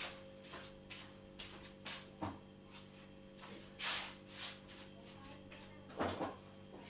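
Scattered light clicks and short rustles from cup and sugar handling, with a stronger brief rustle about four seconds in and another about six seconds in, over a faint steady hum.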